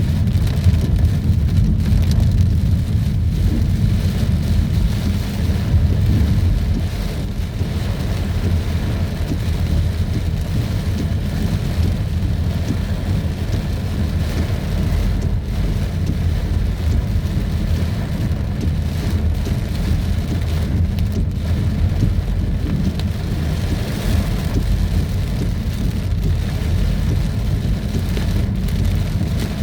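Heavy tropical rain falling in a downpour, a steady loud wash with a strong low rumble underneath.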